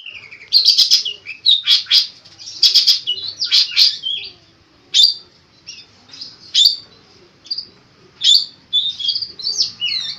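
Long-tailed shrike (cendet) singing a varied song full of mimicked phrases: a fast, dense run of harsh chattering notes for about the first four seconds, then single sharp calls a second or two apart, and a busier burst of notes near the end.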